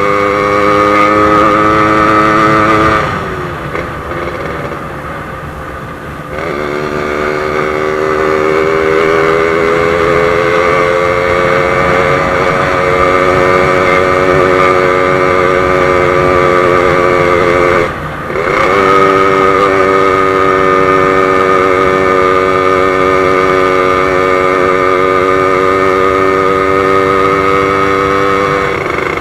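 Yamaha RX-King two-stroke single-cylinder motorcycle engine under way. About three seconds in, the revs fall off as the throttle closes, then build and hold again. Around eighteen seconds there is a brief break in the sound, like a gear change, before it settles back to steady running.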